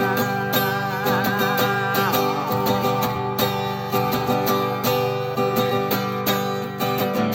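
Acoustic guitar music, strummed with a steady rhythm, with a held high melody note that wavers and slides down about two seconds in.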